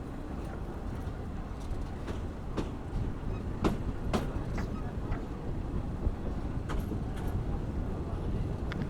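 Local train running on the track: a steady low rumble with sharp clacks and knocks at uneven intervals, the loudest a pair about four seconds in.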